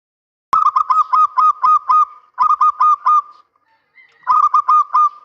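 Male zebra dove (perkutut) cooing. The calls start about half a second in and come in three phrases of quick, evenly spaced coos: a run of about seven, then four, then four.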